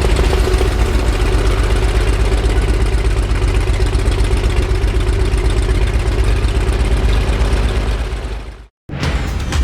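Light aircraft engine running steadily, fading out shortly before the end.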